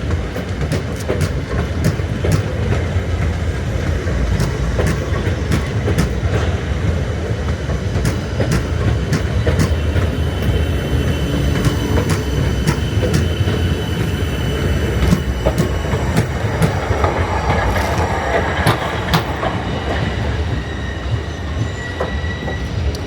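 Electric suburban train running along the track: a steady rumble with many sharp clicks of the wheels over rail joints, and a faint wheel squeal.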